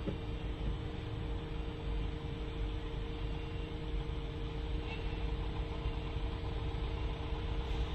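Car engine idling, heard from inside the stationary car's cabin: a steady low rumble with a constant hum.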